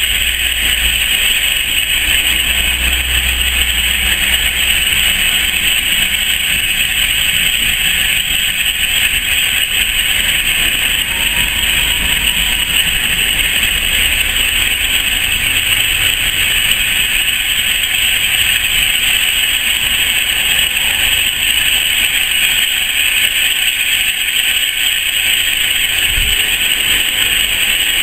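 Railway coaches rolling slowly past beneath the camera: a steady rushing noise, with a deeper rumble in the first few seconds.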